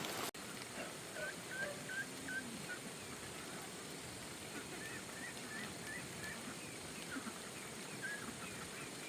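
Farm poultry calling: short, hooked calls in quick runs of four or five, over a steady faint hiss.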